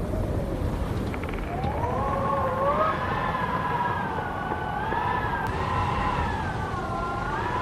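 Howling wind: a wavering whistle that slowly rises and falls in pitch over a steady low rushing noise, the whistle swelling from about a second and a half in.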